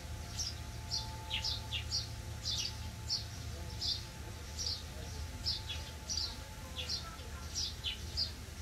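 Small bird chirping over and over: short, high, falling notes about twice a second, over a low steady hum.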